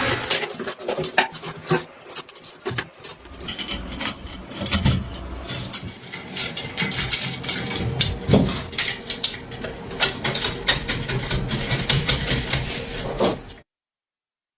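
Metal parts and hand tools clinking, knocking and rattling in a series of irregular sharp knocks, the sound of workshop handling during motorcycle reassembly. It cuts off suddenly near the end.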